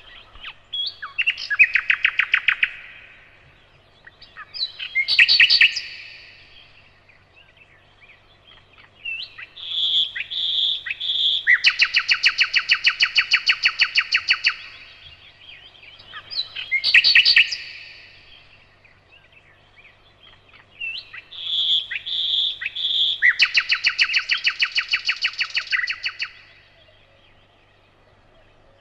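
Nightingale singing in separate phrases a few seconds apart, about five in all. The two longest open with a few loud, spaced notes and run into fast trills of rapidly repeated notes lasting several seconds.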